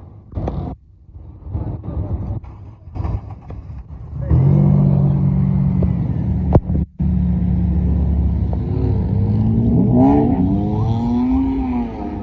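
Car engine running loud at a car meet, with a choppy start and a steady low drone from about four seconds in. In the later seconds the pitch rises and falls.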